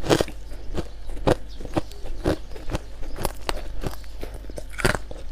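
Frost being chewed close to the microphone: a steady run of short, crisp crunches, about two to three a second.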